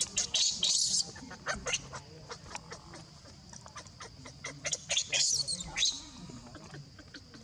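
A baby monkey crying in high-pitched squeals, once at the start and again about five seconds in, among scattered sharp ticks like falling drips.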